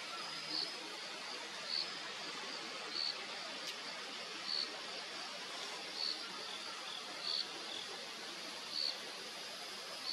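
A small bird's short high call note, repeated about every second and a half, over a steady outdoor hiss with a faint thin high whine.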